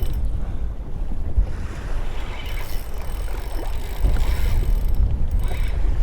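Wind buffeting the microphone in a steady low rumble, with a fishing reel buzzing in several short spells as a hooked bonito runs and is fought.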